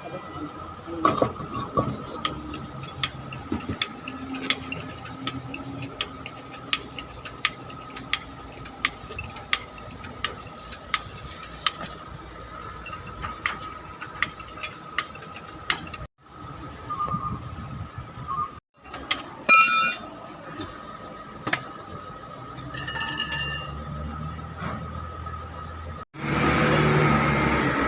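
Sharp metallic clinks and knocks of tools working on a truck's front wheel, over a steady engine hum. A louder rushing noise starts near the end.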